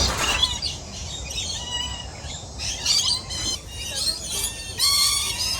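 A flock of small birds chirping and squawking over one another, many short high calls overlapping.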